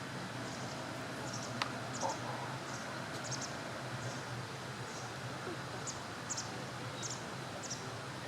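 A small bird giving short, high chirps, one or two at a time, every half second to a second over a steady background hiss, with one sharp click about a second and a half in.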